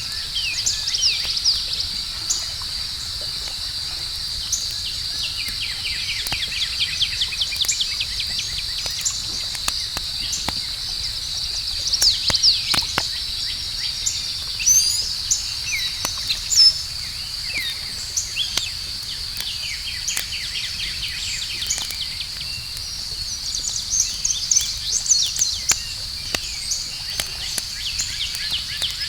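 Outdoor campfire crackling with scattered sharp pops, several clustered about halfway through, over a steady high-pitched chorus of crickets and fast chirping trills.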